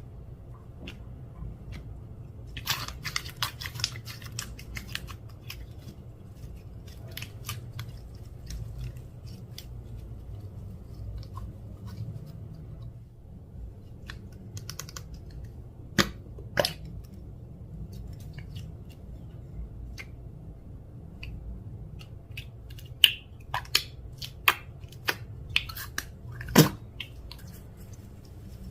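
Clear slime being kneaded and pressed by hand, giving irregular sticky clicks and pops: a quick run of small clicks a few seconds in, then a few sharper, louder snaps later on.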